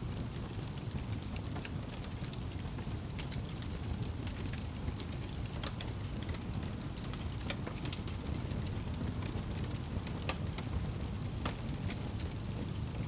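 Crackling fire with scattered sharp pops over a steady rain and low rumble.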